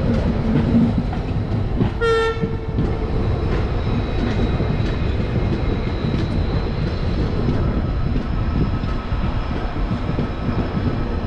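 Passenger train coach running over the tracks, a steady rumble of wheels on rail heard from the open coach door, with a short horn blast about two seconds in.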